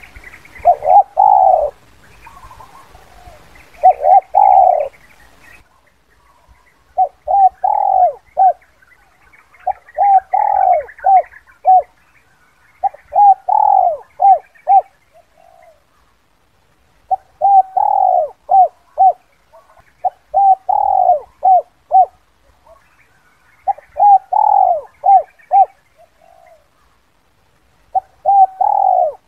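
Spotted dove (Streptopelia chinensis) cooing in the 'kuk 2' call type: repeated phrases of several short coo notes, one phrase about every three seconds. Faint higher chirps sound behind it.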